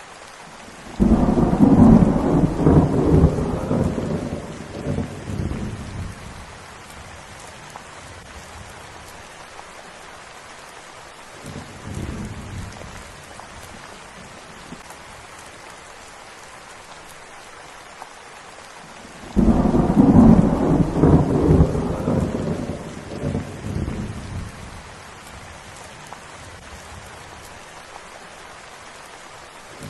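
Steady rain, with two loud rolls of thunder, each rumbling for about five seconds and fading: one about a second in, the other around twenty seconds in. A fainter rumble of thunder comes in between.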